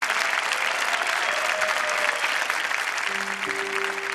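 Audience applauding. About three seconds in, a few steady held instrument notes begin under the clapping.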